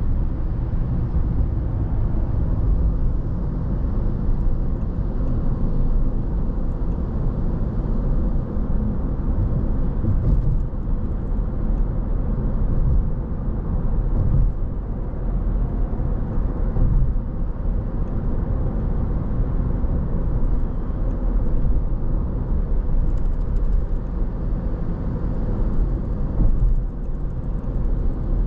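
Car driving steadily on the road: a constant low rumble of tyre and engine noise with a faint steady hum.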